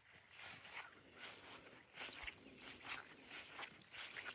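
Faint footsteps brushing through grass along a mowed trail, a soft step about every half second. Behind them, insects keep up a steady high-pitched trill.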